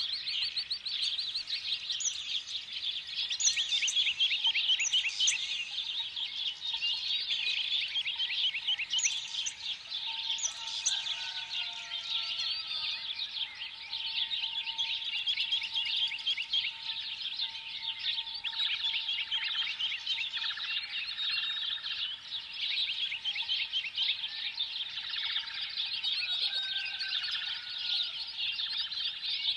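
A dense chorus of many small birds chirping continuously, rapid overlapping chirps with no break.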